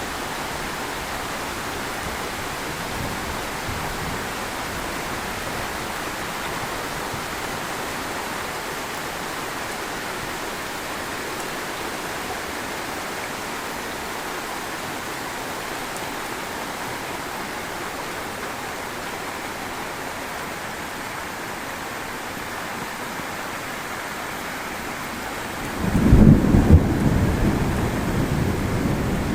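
Heavy rain falling steadily, then near the end a sudden loud thunderclap that rolls on as a low rumble.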